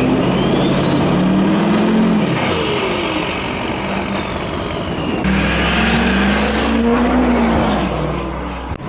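Duramax diesel truck engine revved up and let back down twice, with a high turbo whistle rising and falling with each rev.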